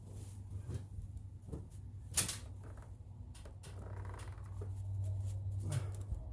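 Small clicks and knocks of plastic air-intake parts being handled and worked loose under a truck's hood, with one sharper click about two seconds in. A steady low hum runs underneath and stops near the end.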